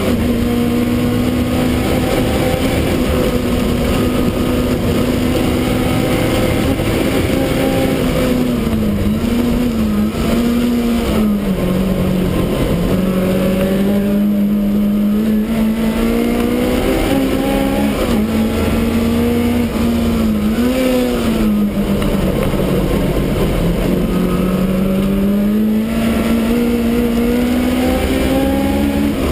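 Supercharged BMW E30's engine heard from inside the stripped cabin, running hard at speed. The revs hold high, then dip and climb back up about nine seconds in and again about twenty seconds in as the car goes through the corners.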